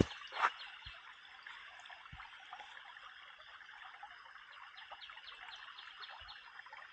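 Mountain creek running over rocks: a steady rush of flowing water.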